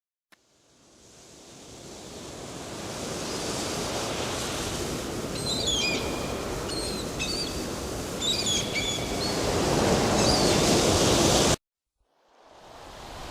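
Sea surf washing on a sandy beach: a steady rush of waves that fades in over the first few seconds. Small birds chirp several times through the middle. The sound cuts off suddenly near the end and then fades back in.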